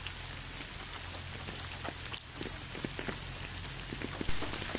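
Steady light rain: a soft even hiss with scattered drops ticking.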